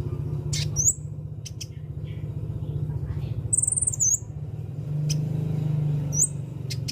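Konin bird calling: a few high, quick chirps and upward sweeps with a short trill in the middle, mixed with sharp clicks, over a steady low hum.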